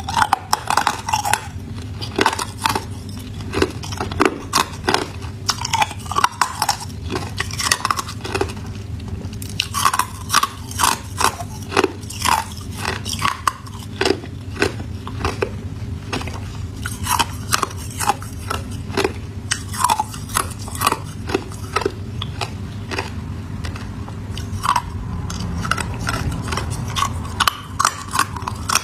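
A person biting and chewing ice, with close, sharp crunches coming several times a second in an irregular run.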